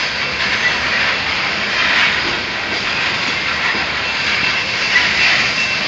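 Coal train's freight cars rolling past at close range: a steady rush of steel wheels on rail.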